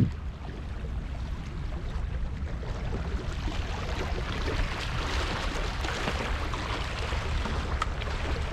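Wind rumbling on the microphone over a steady outdoor hiss of sea and weather that grows a little louder after about three seconds, with a brief bump on the microphone right at the start.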